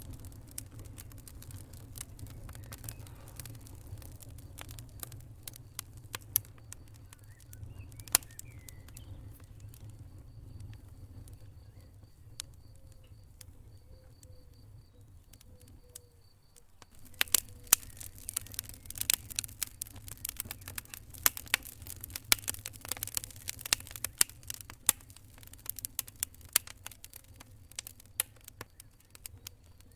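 Wood fire crackling and popping over a low rumble of burning. The pops are scattered at first; after a short dip a little past halfway, the crackling becomes dense and louder.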